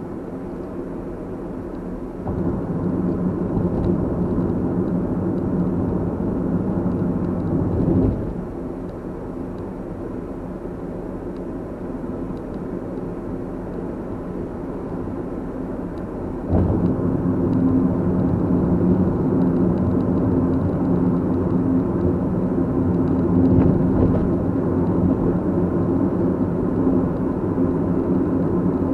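A car's engine and road noise while driving, a steady low hum that gets louder about two seconds in, drops back around eight seconds, and rises again about halfway through as the engine works harder.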